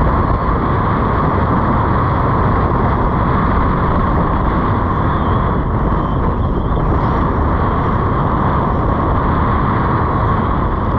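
Steady, loud roar of wind buffeting the microphone over the beach surf.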